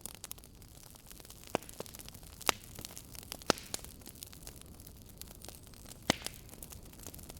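Fireplace fire crackling: a steady hiss with scattered sharp pops, four of them loud.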